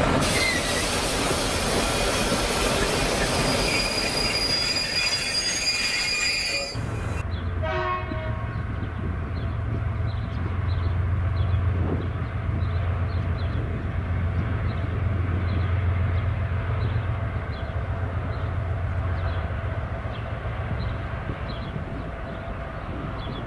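A train passing close by with high steady squealing tones over the rumble for about seven seconds, then a locomotive's steady low engine drone.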